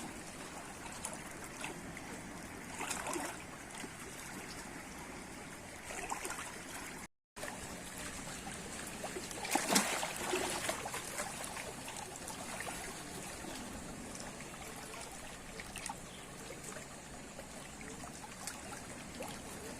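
Water trickling and lapping as a steady wash of noise, with a few short splashy or rustling bursts, the loudest about ten seconds in. The audio drops out briefly about seven seconds in.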